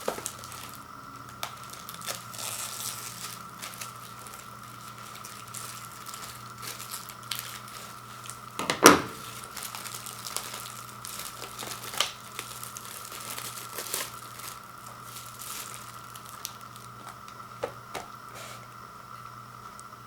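Packaging of a frozen microwave pizza being handled and opened: plastic wrap crinkling and tearing and cardboard rustling, with scattered clicks and one sharp knock about nine seconds in, over a faint steady hum.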